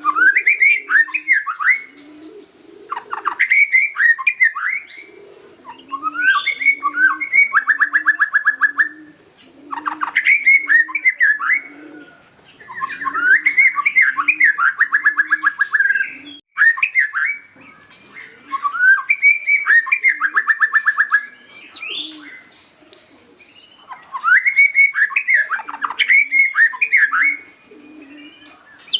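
Young white-rumped shama, just out of its spotted juvenile plumage, singing plain, clear song phrases of whistled notes and fast rattling trills, a phrase every two to three seconds. A low cooing repeats underneath, with a steady thin high tone in the background.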